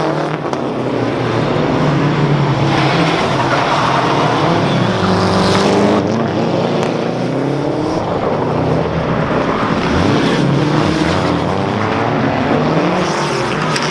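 Skoda Fabia R5 rally car driven flat out, its turbocharged four-cylinder engine revving hard, with the pitch climbing and dropping again and again through gear changes. There is some tyre squeal.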